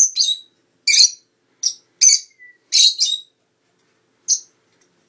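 Lovebirds giving short, sharp, high-pitched chirps in quick bunches, about eight calls in the first three seconds and one more a second later.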